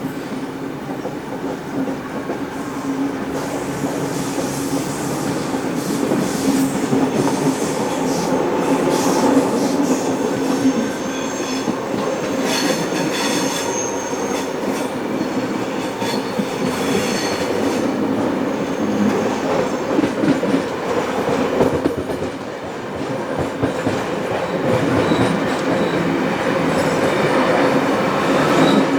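A steam-hauled heritage passenger train running on the rails, with a steady rumble and a thin high wheel squeal between about 10 and 17 seconds in.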